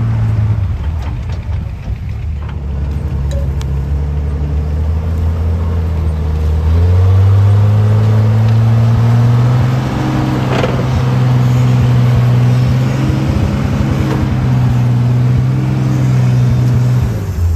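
A vehicle engine running at a steady, raised speed, close by. About seven seconds in the pitch steps up, then holds steady until it cuts off just before the end.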